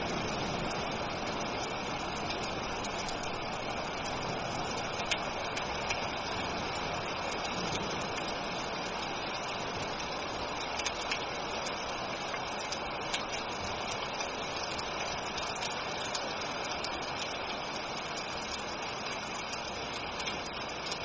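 Steady heavy rain, an even hiss with a few faint drop ticks now and then.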